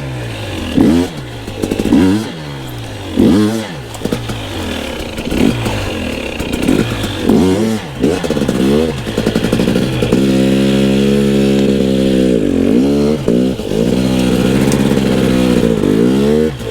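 Two-stroke dirt bike engine being ridden, revved in a run of short rising blips and then held at steady revs for several seconds, dipping briefly a few times.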